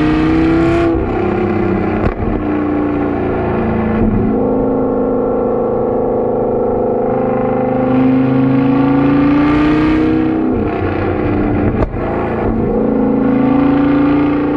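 Lamborghini Gallardo's V10 engine pulling under acceleration. The engine note climbs in pitch, drops sharply at gear changes about a second in and again about ten seconds in, holds steady in between, and climbs again toward the end.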